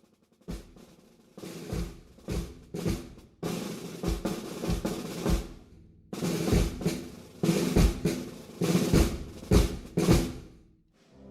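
Marching-band snare drums and bass drum playing a processional drum cadence: snare rolls punctuated by heavy bass-drum strokes, with a short break about six seconds in. The loudest strokes come in the second half.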